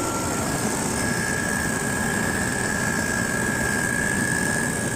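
HVAC unit running steadily with its supply fan on, just restarted after a burnt contactor was replaced, with a steady whine that steps up slightly in pitch about half a second in.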